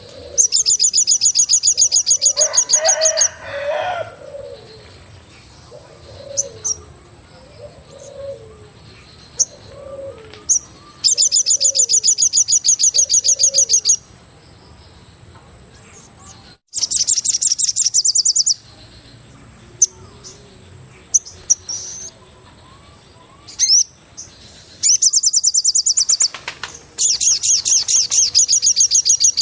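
Forest birdsong: a loud, rapid, high trill lasting a few seconds, repeated five times, with a series of short low cooing notes about once a second between the trills and a thin steady high tone underneath.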